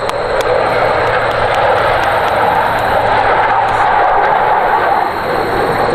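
F-15 Eagle twin-engine fighter jet passing low overhead, a loud steady jet rush that builds to its peak about four seconds in and eases off near the end.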